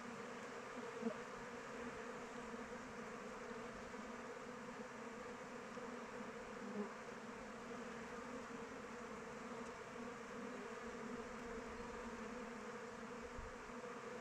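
Honey bees buzzing in flight around their hive: a steady, many-voiced hum, with two brief louder buzzes about a second in and again near seven seconds.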